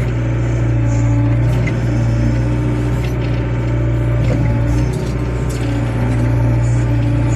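Diesel engine of a small wheeled excavator running steadily at working revs, with a few light knocks from the machine at work.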